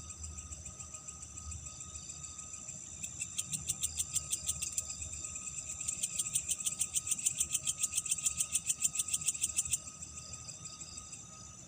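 Night chorus of insects chirring steadily at a high pitch, with a loud, rapid clicking trill of about eight pulses a second. The trill runs from about three to five seconds in and again from about six to ten seconds in.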